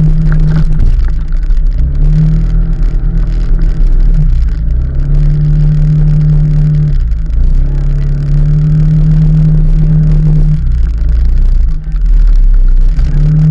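A vehicle engine under way, its pitch climbing and then dropping back about four times as it accelerates, over a constant low rumble.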